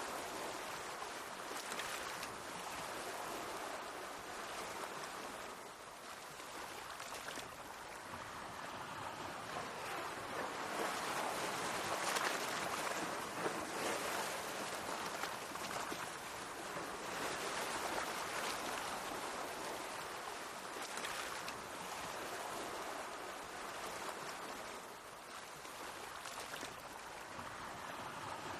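Mediterranean sea waves washing in: a steady hiss of water that swells and eases every few seconds, with brief louder splashes.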